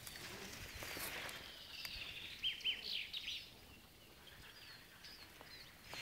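Faint outdoor ambience with wild birds chirping, a quick run of short high calls about two to three seconds in and a few fainter ones after.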